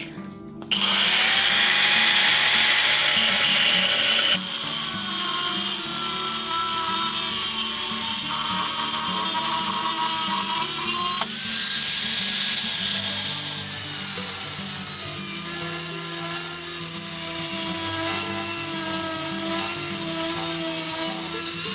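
Electric power tool running at high speed, a steady high whine whose pitch and character change abruptly several times, as between edited shots.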